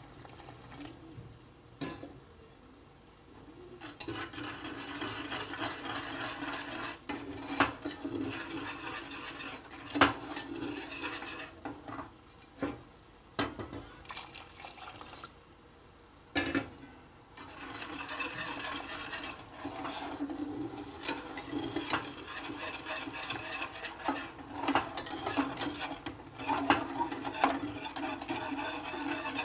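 A utensil stirring and scraping around a pot as milk is mixed into cocoa, sugar, flour and starch, with sharp clinks against the pot's side. The stirring goes in two long spells with a pause of a few seconds about midway.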